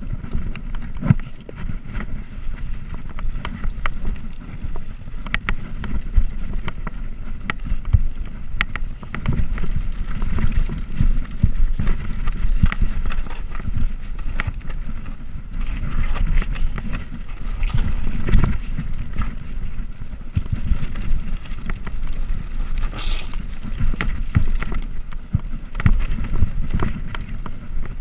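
Wind buffeting the microphone of a bicycle riding along, a steady low rumble, with frequent short knocks and rattles scattered throughout.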